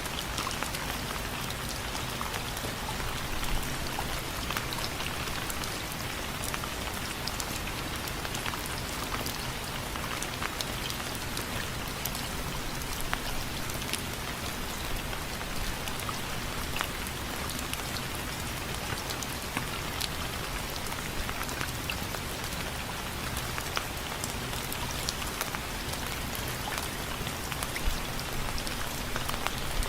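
Steady rain falling on window frames, a constant hiss with many separate drops tapping sharply on them.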